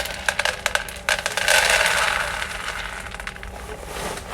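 Small crisp cereal pieces pouring from the bag into a bowl. First a rattle of many quick clicks, then a sudden, steadier rushing pour just after a second in that slowly tapers off.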